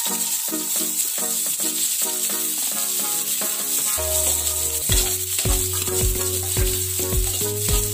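Background music with a steady beat, over garlic and onion sizzling in hot oil in a wok as a metal ladle stirs them.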